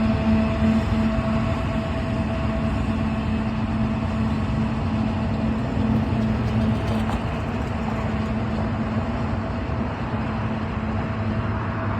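Union Pacific freight train of rock cars rolling past, a steady rumble with a steady droning tone throughout.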